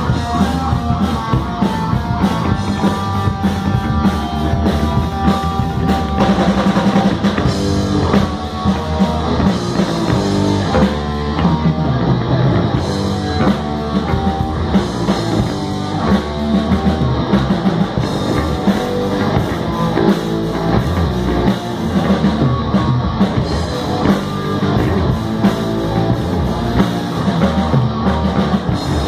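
Live rock band playing: drum kit and distorted electric guitars, loud and continuous.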